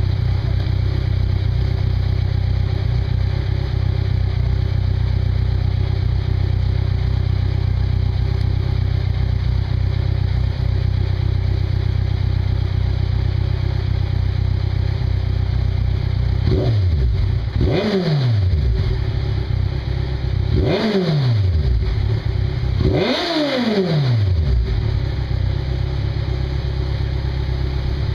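2012 Kawasaki Ninja 1000's inline-four idling steadily through Vance & Hines Urban Brawler CS One slip-on exhausts with the baffles out. About two-thirds of the way in it is revved four times in quick succession, each rev rising and falling back to idle, the last the longest.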